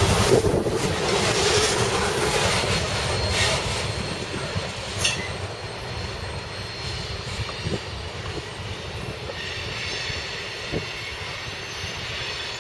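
CSX ore train's loaded cars rolling along the rails, fading over the first few seconds as the train moves away, with a few sharp wheel clicks.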